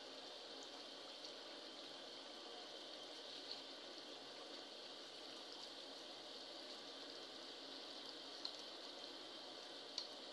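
Chicken curry with tomatoes and ginger-garlic paste sizzling and bubbling steadily in oil in a karahi as it is stirred with a wooden spoon, with a few faint clicks. This is the frying stage of the masala, before the ground spices go in.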